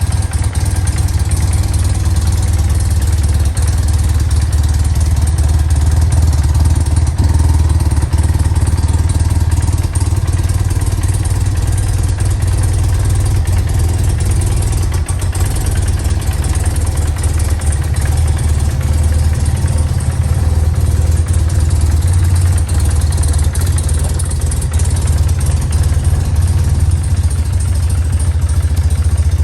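1995 BMW R100GS Paris-Dakar's air-cooled boxer twin idling steadily shortly after a cold start on choke.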